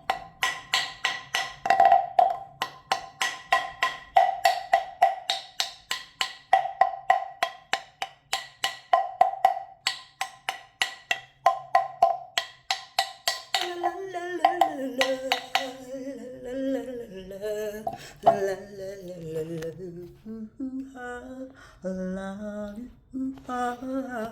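Quick, even taps on a wood-block-like percussion instrument with a ringing tone, about four a second, stopping about 14 seconds in. A woman's voice then hums a slow, wandering tune.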